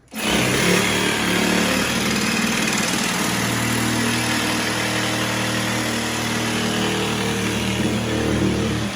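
An electric power tool's motor running steadily at speed, with a slight shift in pitch about three seconds in; it starts and stops abruptly.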